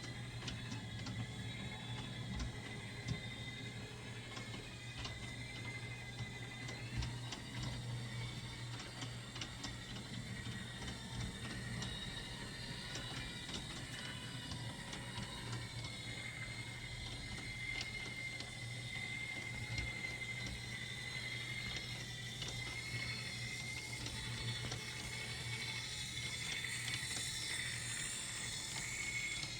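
Märklin gauge 1 Adler model locomotive running on its track, with its gears whirring steadily, a slowly wavering whine and many small clicks.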